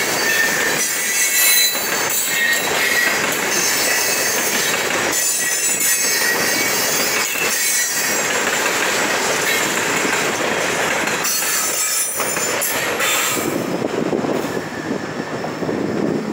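Maryland Midland stone train's freight cars rolling past, a steady rumble of steel wheels on rail with high wheel squeal and some clicking over the joints. About thirteen seconds in the squeal and hiss fade as the last cars go by.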